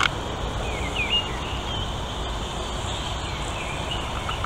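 Small birds chirping several times in short, gliding calls over a steady low rumble.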